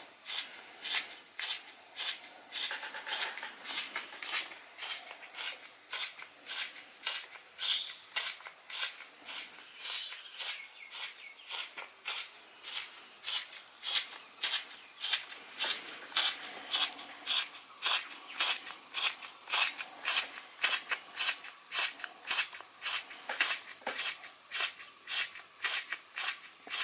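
Model steam engine running under the load of a Baker fan, its exhaust giving a fast, even, hissing chuff that gets louder about halfway through.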